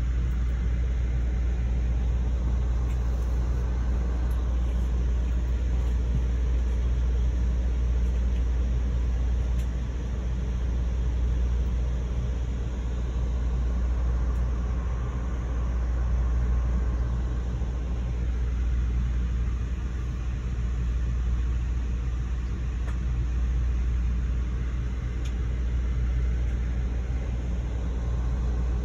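Steady low rumble and hum of an Amtrak Silver Star passenger train, heard from inside the passenger car.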